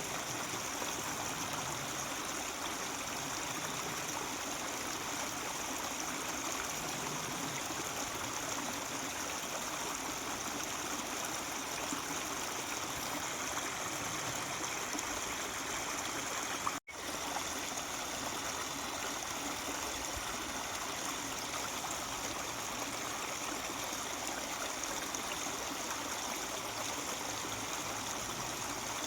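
Mountain stream babbling steadily over rocks, with a momentary dropout about seventeen seconds in.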